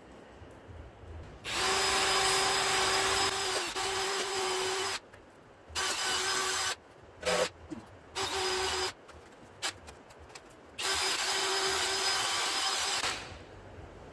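Power drill running in five bursts, a steady motor whine with grinding noise, the first burst about three seconds long, then three short ones and a last of about two seconds. It drives a tap chasing the bolt threads in a 454 big-block Chevy engine block.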